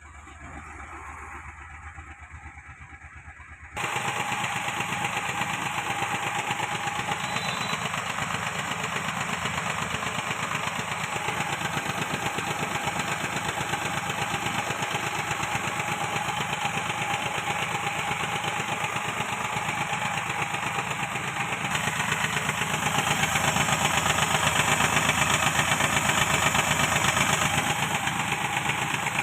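Car engine running with a rapid, even pulsing. It starts abruptly about four seconds in, grows louder from about twenty-two seconds in, and cuts off suddenly at the end.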